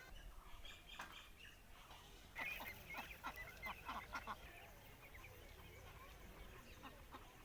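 Faint bird calls: a run of short repeated squawks about two and a half to four and a half seconds in, over a low steady background hum.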